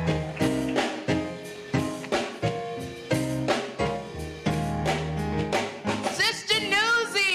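Band music with a drum kit keeping a beat under a bass line and held chords; a voice joins with melodic runs near the end.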